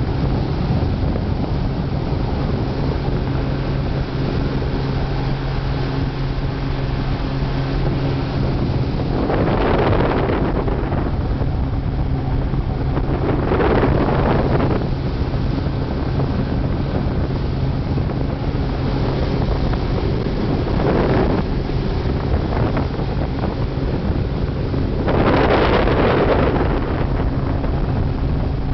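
Ferry engine droning steadily in a low hum, with wind buffeting the microphone in several gusts.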